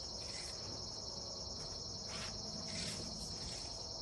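Steady high-pitched chirring of an outdoor insect chorus, a constant fine pulsing trill.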